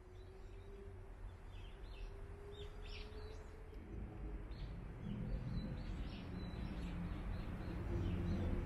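Small birds chirping: many short, high chirps scattered through the middle, over a low outdoor rumble that grows louder about halfway through.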